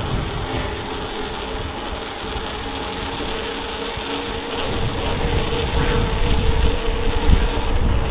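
Steady rolling noise of a bicycle ride: wind rumbling on the microphone and tyre noise, with a faint steady hum throughout.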